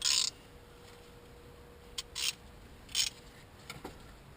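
A few short scrapes and rustles from hands and tools working on an engine: one at the start, two about two seconds in and one more a second later. A faint steady hum sits under them.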